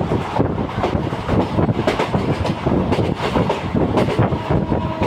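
A train in motion heard from inside a passenger coach: a steady rumble with rapid, irregular clatter of the wheels over the track.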